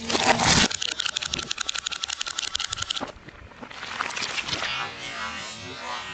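Car tyre crushing crunchy objects: a loud crunch at the start, then about two seconds of rapid crackling, and after a short pause a softer, rustling crackle.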